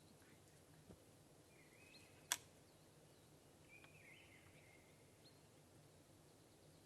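Near silence with faint bird calls, two short chirping phrases, and one sharp click a little over two seconds in.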